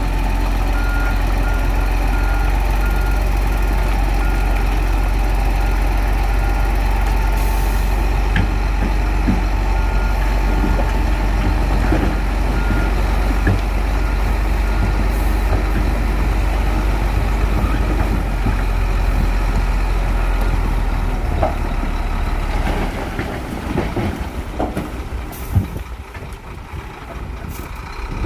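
Shantui bulldozer's diesel engine running steadily, with a reversing alarm beeping about twice a second for roughly the first half. The engine sound drops away to a lower level near the end.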